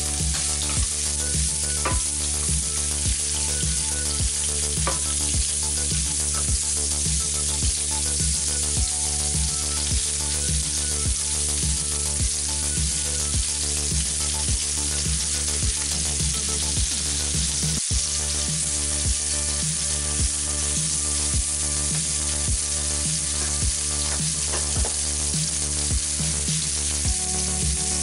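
Sliced onions sizzling as they fry in butter in a nonstick frying pan, turned and scraped with a wooden spatula.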